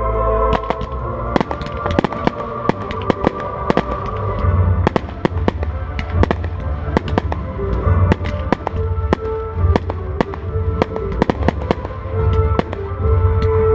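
Fireworks display: a rapid, continuous series of sharp bangs and crackling bursts from exploding shells, over music with a steady bass.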